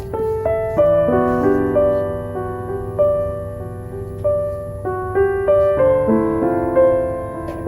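Slow, gentle piano music: single notes and chords ring and fade one after another. Beneath them are a steady low hiss and faint crackles from a wooden-wick candle.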